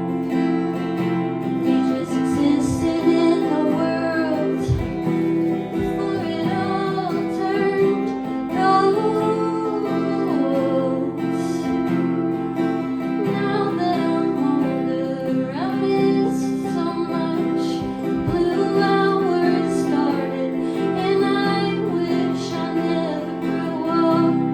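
A woman singing a slow song to acoustic guitar, the guitar strummed steadily beneath the voice.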